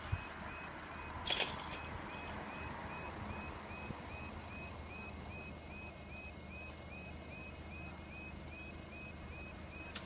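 UK level crossing electronic warning alarm sounding, a high yelping tone repeating about three times a second, over a steady background rumble.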